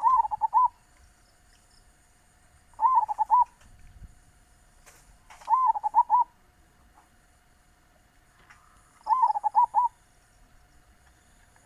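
Zebra dove (perkutut) cooing: four short phrases of quick rippling coos, each under a second long and a few seconds apart.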